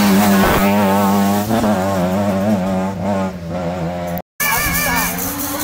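Rally car engine revving hard as the car pulls away along the stage, its note wavering up and down with throttle and gearchanges. The sound cuts off suddenly about four seconds in.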